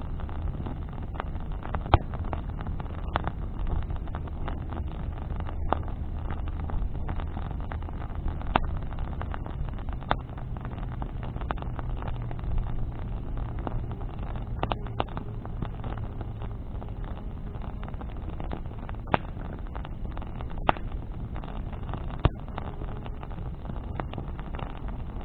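A bonfire of branches burning, with sharp crackles and pops every second or two over a steady low rumble. A faint steady engine hum runs underneath and shifts higher in pitch about ten seconds in.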